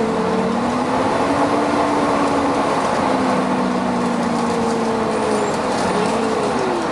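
Volvo B9TL bus running, with a steady rush of noise from its loud cooling fan and an engine note that rises and falls in pitch.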